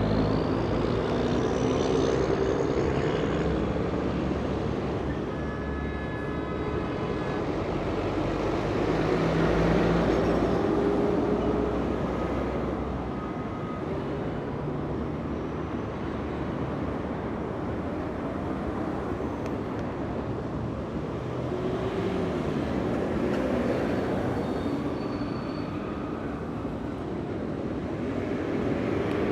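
Busy street traffic: a continuous rumble of engines and tyres that swells as heavy vehicles pass, about three times.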